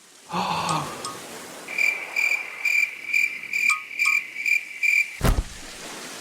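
Cartoon cricket-chirp sound effect: a high, even chirp repeating about three times a second, filling an awkward silence. It ends with a single sharp knock.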